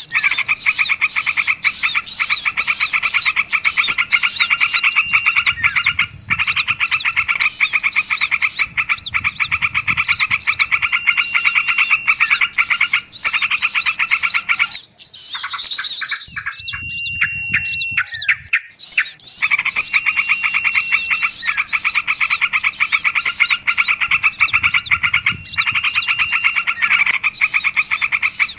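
Dense, rapid chattering of several small songbirds layered together as a bird-lure call mix, with quick repeated high hooked notes over a fast buzzing rattle and now and then a short held whistle. The chatter thins out for a few seconds about halfway through.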